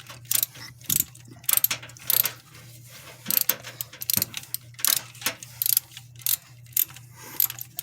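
Ratchet wrench clicking in short repeated strokes, about two a second, as a spark plug is turned. A steady low hum runs underneath.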